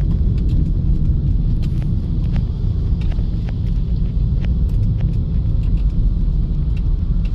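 A vehicle driving along a road: a steady low engine and road rumble, with faint scattered ticks.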